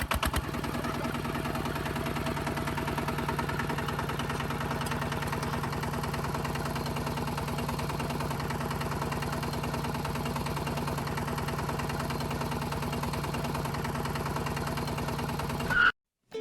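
A small engine running steadily at an even speed with a fast, even pulse, cutting off abruptly near the end.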